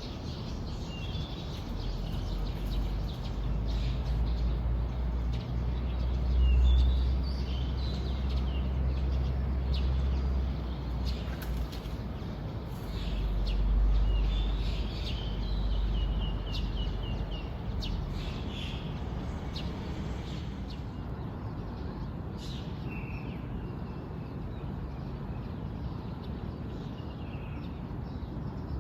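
Small birds chirping with many short scattered calls, over a low rumble that swells twice, about seven and fourteen seconds in, and fades out in the last third.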